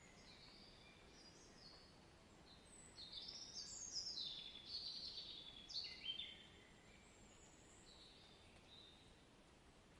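A songbird singing a rapid run of notes that step downward in pitch, loudest between about three and six seconds in, with fainter calls before and after, over a faint steady background hiss.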